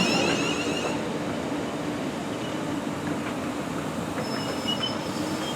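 Train running on the rails: a steady rumble and hiss with a low hum underneath, easing a little in loudness after the first second.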